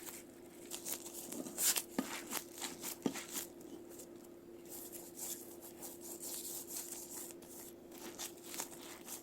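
Scattered soft crinkling, rustling and light clicks of hands handling dried laver sheets and gimbap fillings while rolling gimbap by hand, with a faint steady hum underneath.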